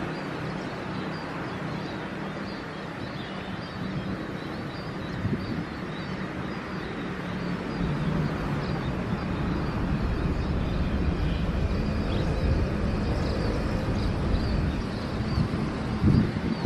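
Distant jet airliner rumble with a steady low hum, growing louder and deeper about halfway through.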